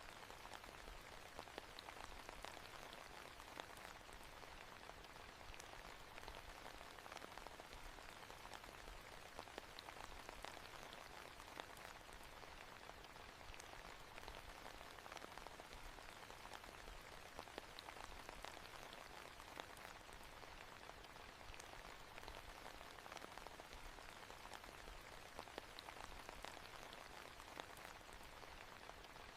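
Faint, steady rain falling, with many small individual drops ticking through the even hiss.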